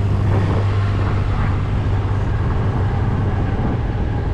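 Tractor engine running steadily at an even speed with a deep, constant hum.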